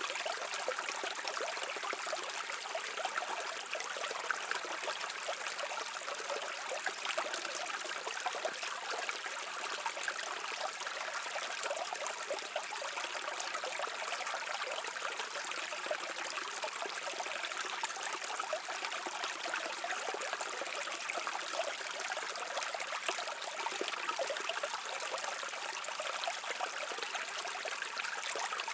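Shallow stream running and babbling over rocks, a steady rush of water with a fine trickling texture.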